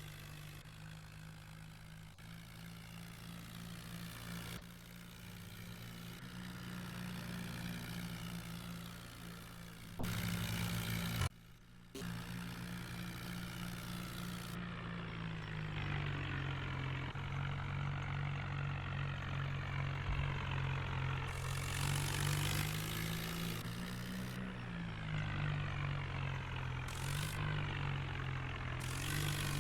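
New Holland tractor's diesel engine running while pulling a loaded trolley, its pitch rising and dipping as the load and throttle change. There is a brief cut-out about 11 seconds in.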